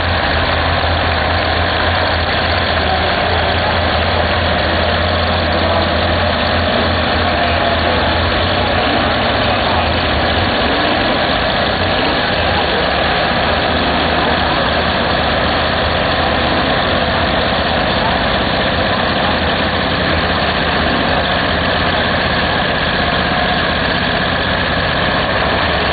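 Heavy diesel truck engine running at a steady speed, loud and even, with no revving; its deepest rumble drops back about ten seconds in.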